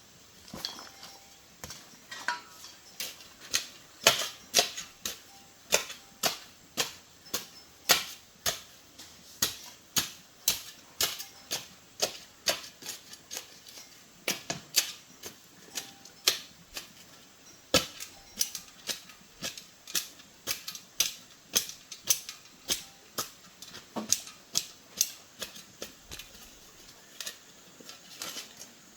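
Sharp clicks and taps of hard objects, irregular at about two or three a second, with brief pauses.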